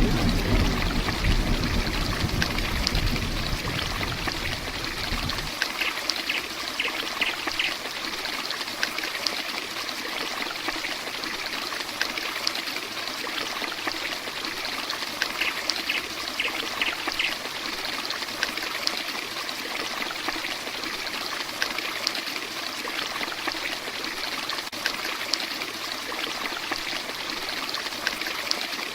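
Heavy rain pouring steadily, with a low thunder rumble fading and ending about five seconds in.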